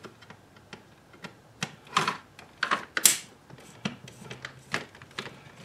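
Light plastic clicks and taps at an uneven pace as a car's climate control panel assembly is handled and taken apart, with a louder, sharper scraping snap about three seconds in.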